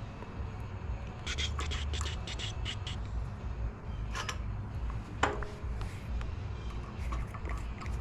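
Hand work on small metal engine parts: a run of quick clicks and scrapes, a few knocks, and about five seconds in one sharp clink that rings briefly.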